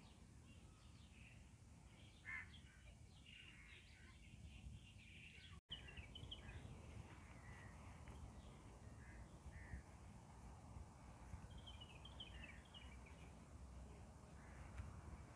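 Birds calling faintly in short, scattered chirps over a steady low background rumble, with a brief dropout about five and a half seconds in.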